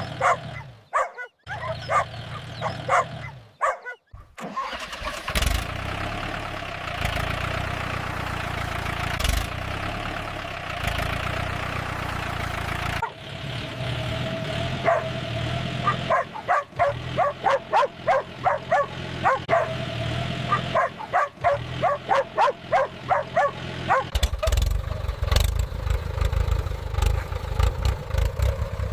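Dogs barking repeatedly over a tractor engine running.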